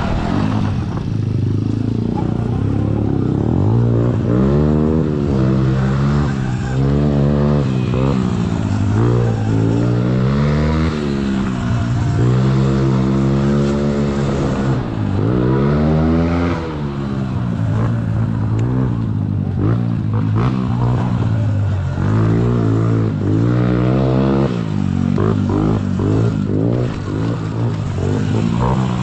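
Sur-Ron electric dirt bike's motor and chain drive whining, the pitch rising and falling over and over as the bike speeds up and slows around a dirt track, with some clattering and scraping from the ride.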